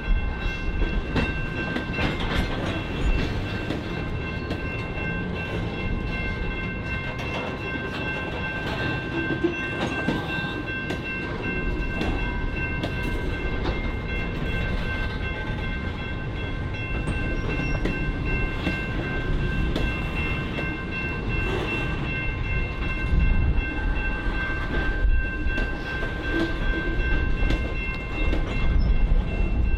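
Freight train cars rolling past with a low rumble and irregular clicks of wheels over rail joints, plus a thin steady high-pitched wheel squeal throughout.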